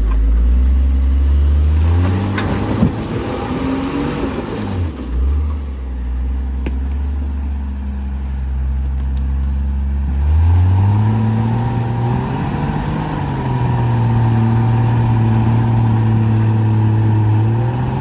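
Off-road truck engine working up a rock ledge. It revs up about two seconds in and settles back, then revs up again about ten seconds in and is held at higher revs to the end.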